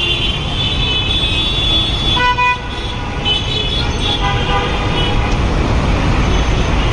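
Dense city road traffic: a steady rumble of engines and tyres with repeated vehicle horns honking over it. The clearest, a single horn blast, comes about two seconds in, and more short honks follow a second or two later.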